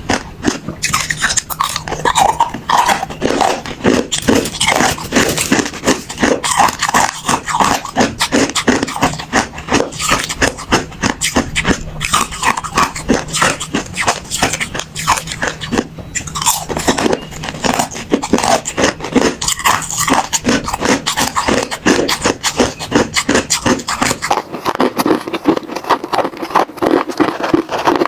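Ice cubes being bitten and chewed, a continuous run of rapid, sharp cracking crunches.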